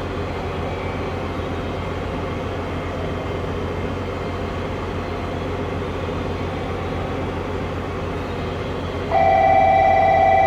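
A JR train stands at the platform with a steady running hum. About nine seconds in, a loud, steady buzzer-like tone starts and holds, the signal that comes just before the departure announcement.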